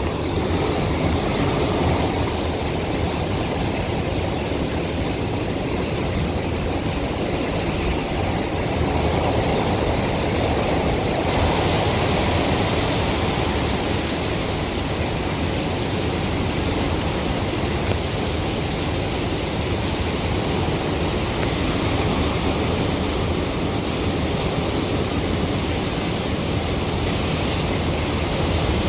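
Hurricane wind blowing in a steady loud rush with a deep rumble, its hiss growing louder about eleven seconds in as a stronger band comes through.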